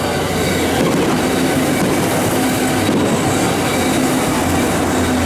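A Kintetsu electric commuter train passing close by, its wheels running on the rails in a loud, steady noise.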